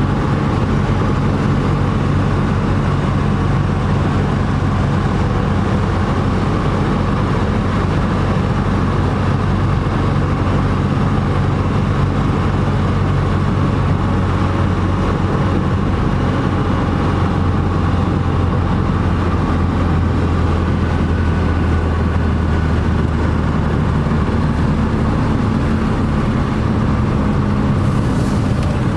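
The four-cylinder engine of a 1968 BMW 1600-2 running steadily, its pitch dropping slightly about two-thirds of the way through.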